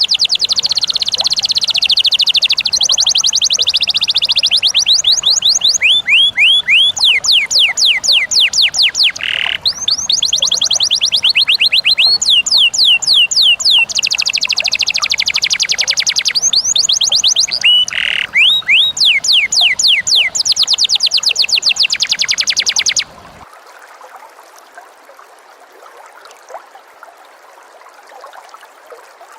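Caged songbirds singing fast, high trills: phrase after phrase of rapidly repeated downward-sweeping notes, in the style of canary and lovebird training song. The song cuts off suddenly about 23 seconds in, leaving only a faint steady hiss.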